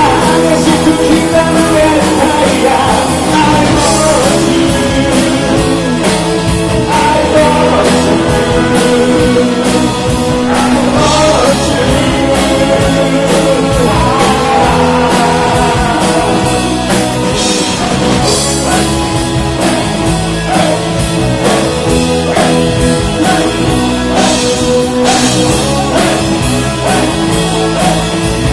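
Rock band playing live, loud and steady throughout.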